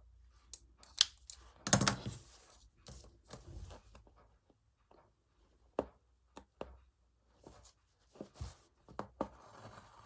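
Hand embroidery: a needle and thread drawn through fabric, with short scratchy rasps as the thread is pulled through and several sharp clicks and taps in between.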